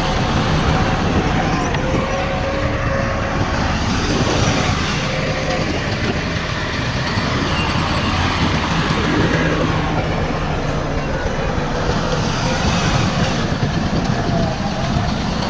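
Heavy earthmoving machinery running steadily, its diesel engines making a continuous low hum with a faint higher whine over it.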